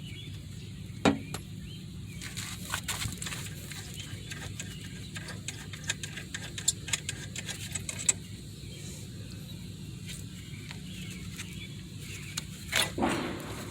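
Socket and wrench working the 14 mm front brake caliper bolts: scattered short metallic clicks and taps, a sharp one about a second in and a louder clank near the end, over a steady low hum.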